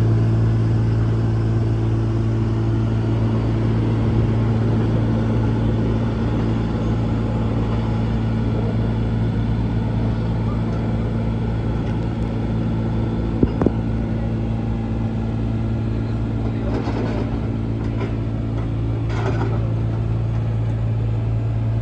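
Liebherr T 264 mining dump truck running, a steady low drone. A couple of sharp clicks come about halfway through.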